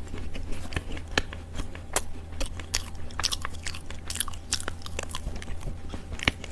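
Chunks of dry Chinese loess (yellow earth) being bitten and chewed, giving rapid, irregular small crunches and crackles over a low steady hum.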